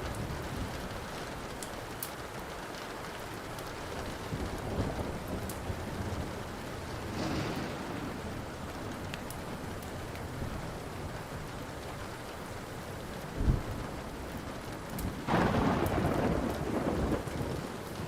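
Steady rain with a wood fire crackling in scattered sharp pops. A sudden loud low thump comes about thirteen seconds in, then a burst of thunder rumbles a couple of seconds later.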